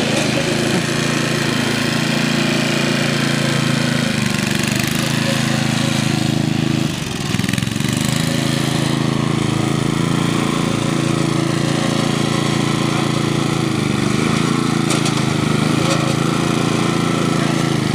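Ariens lawn tractor's 8 hp Tecumseh single-cylinder engine running steadily, with a brief dip about seven seconds in.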